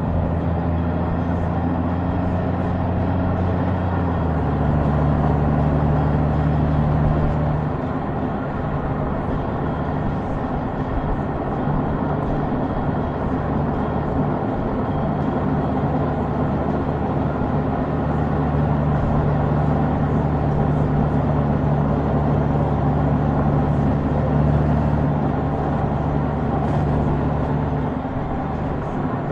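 Honda Goldwing's flat-six engine running at a steady road speed under wind and road noise. Its note steps down about four seconds in and changes again a few seconds later.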